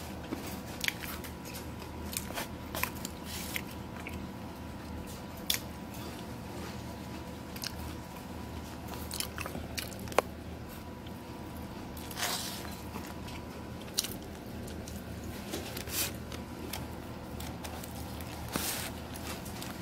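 A person chewing and crunching breaded orange chicken, with scattered clicks and scrapes of a plastic fork in a foam takeout box, over a steady low hum.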